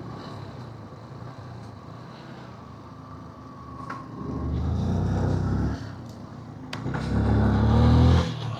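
Motorcycle ride with a steady rumble of engine and road noise. A vehicle engine swells loudly twice, about four and seven seconds in, and its pitch rises during the second swell as it revs up.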